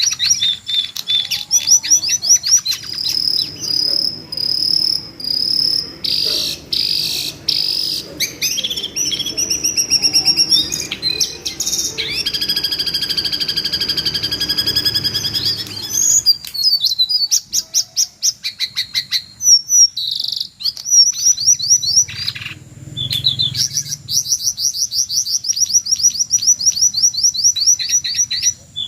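Jongkangan bird giving shrill, screaming calls: rapid strings of high, sharp notes and fast trills, with a longer held call about halfway through.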